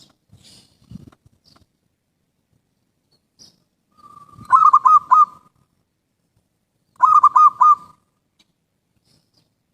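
Zebra dove (perkutut) cooing: two short phrases about two and a half seconds apart, each a held note running into three quick warbled notes. Faint high chirps of small birds in the first couple of seconds.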